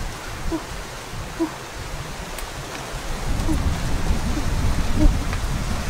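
Steady outdoor hiss with a low rumble that grows from about halfway, under a bird's short low hoots repeating every second or so.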